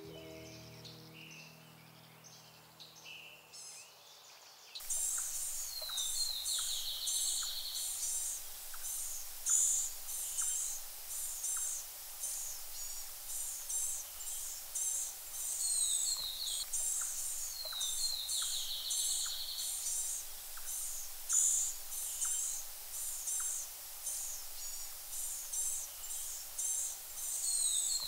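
Music fading out over the first couple of seconds, then high, thin bird calls repeating over a hiss of outdoor background, with a buzzy falling trill twice.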